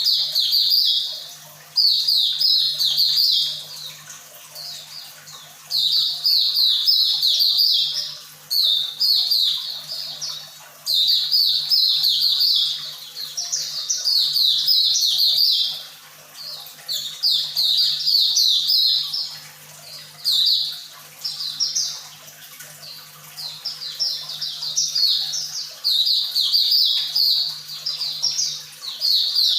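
White-eye bird singing: repeated phrases of rapid, high-pitched twittering, each lasting a second or two, with short gaps between them. A faint steady hum runs underneath.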